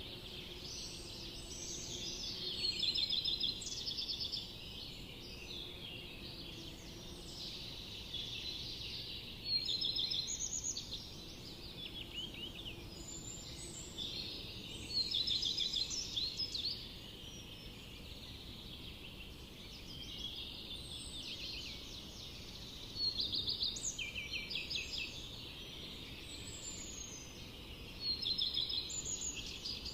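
Birds chirping and trilling, with bouts of quick, high repeated notes coming every few seconds over a faint, steady background hiss.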